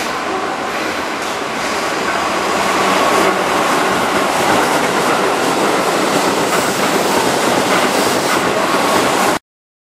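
Keihan 6000-series electric commuter train running past on curving track through pointwork, with steady wheel-on-rail noise and clatter over rail joints. The sound cuts off abruptly near the end.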